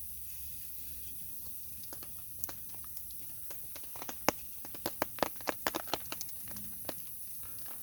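Wood burning in a small twig stove, crackling and snapping: a burst of sharp, irregular pops about four to six seconds in, over a steady faint high hiss.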